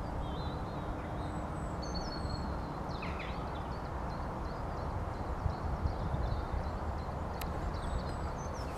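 Wind rumbling on the microphone during a snow storm, with small birds chirping intermittently over it and a single sharp click late on.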